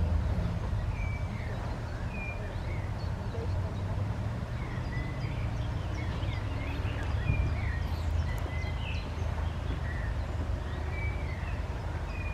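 Small songbirds chirping and twittering here and there, several short calls every second or so, over a steady low rumble.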